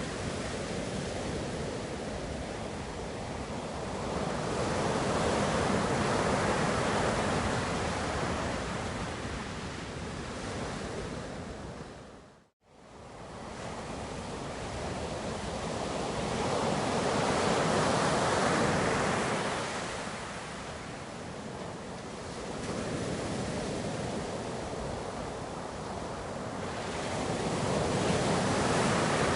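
Ocean surf washing in a continuous rush that swells and eases every ten seconds or so as waves break and run out. About twelve seconds in it cuts out for a moment and fades back in.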